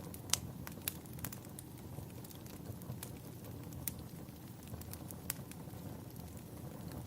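Wood fire burning in a fireplace: irregular sharp crackles and pops over a steady low rumble, the loudest pop about a third of a second in.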